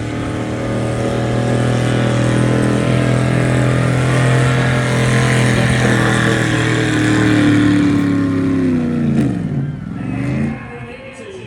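Stock gasoline pickup truck engine running hard at steady high revs while pulling the sled. Near the end the revs fall sharply, pick up briefly, then the engine sound drops away.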